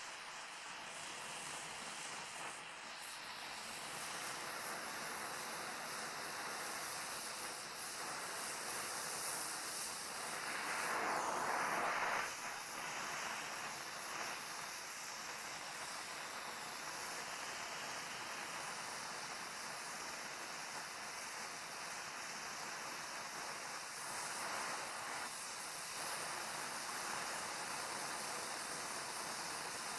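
Oxyacetylene welding torch flame hissing steadily while gas welding a bead on steel. It grows louder for about two seconds around ten seconds in.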